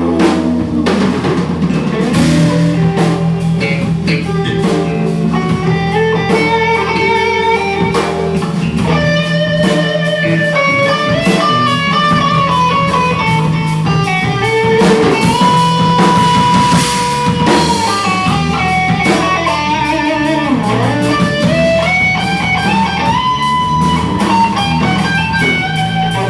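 Live rock band playing an instrumental passage: an electric guitar solo with bent and held notes over bass guitar and drum kit.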